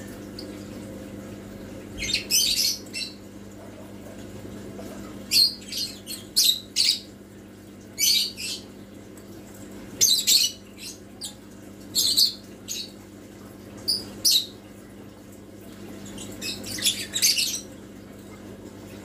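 A bird chirping and squawking in short high-pitched calls, about a dozen of them spaced irregularly, some in quick clusters, over a steady low hum.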